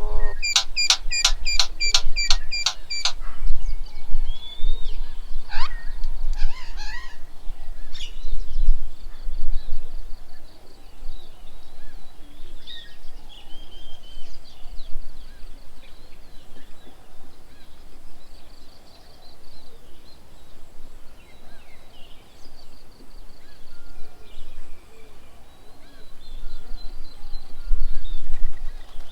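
Birds calling around a garden bird table: a rapid run of about ten sharp, ringing notes in the first three seconds, then scattered chirps and short whistles. A low rumble runs underneath.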